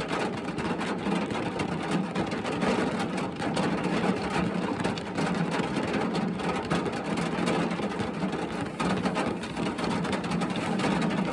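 Steady rain falling on a car's roof and windows, heard from inside the cabin: an even hiss dotted with many small drop ticks.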